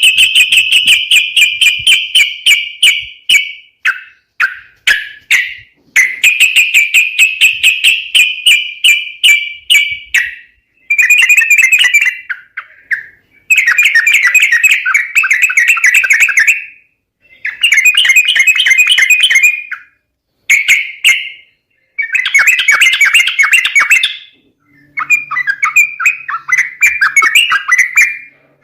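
Yellow-vented bulbul (trucukan) calls used as a lure: loud bouts of rapid, chattering notes a few seconds long, repeated after short pauses.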